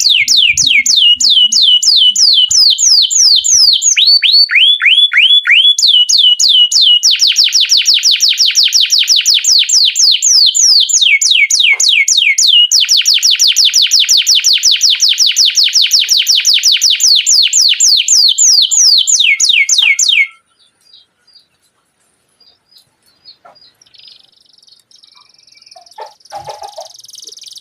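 Domestic canary singing a rolling song: long, rapid trills of repeated falling whistles in several runs, which stop abruptly about three-quarters of the way through, leaving only a few faint chirps.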